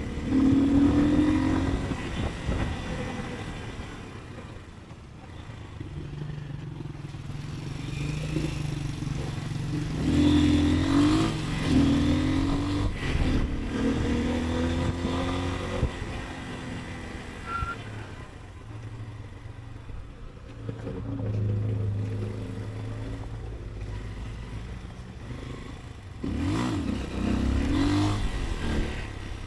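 Motorcycle engine accelerating several times, its pitch rising through each gear and dropping at the shifts, with steadier stretches between, over road and traffic noise.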